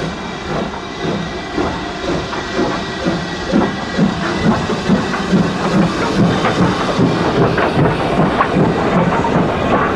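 BR Standard steam locomotive working, with steady steam hiss and regular exhaust beats, about two to three a second, growing louder from about three seconds in.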